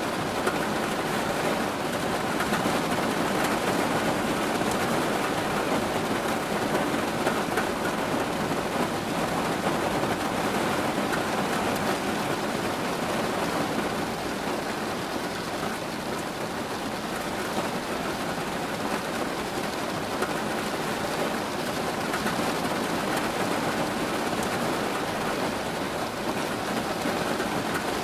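Steady rain falling, an even hiss that keeps on without breaks or changes.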